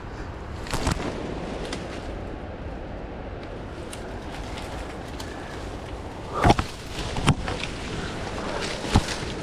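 A person pushing through dense undergrowth on a sandy slope: steady rustling with a few sharp cracks or thuds, the loudest about six and a half seconds in.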